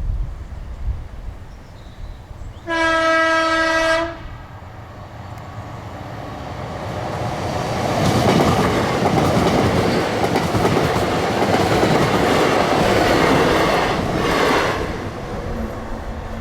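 A train sounds its horn in one blast of just over a second, then approaches and passes, the rumble and wheel clatter building to a peak and fading away near the end.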